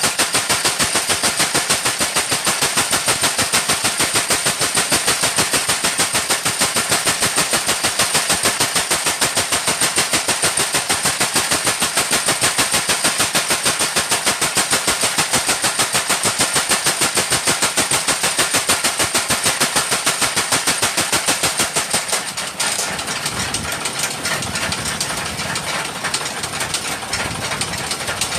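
Blacksmith's mechanical power hammer pounding hot steel for rotary tiller blades in rapid, even strokes, about six a second; the pounding stops about 22 seconds in, leaving a quieter, irregular clatter.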